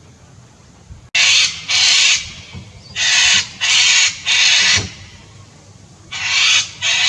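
Seven loud, harsh screeching bird calls, each about half a second long: two about a second in, three in a row around the middle, and two more near the end.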